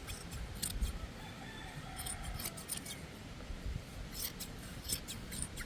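Hand shears snipping through a sheep's fleece: sharp, quick blade cuts that come in short irregular runs.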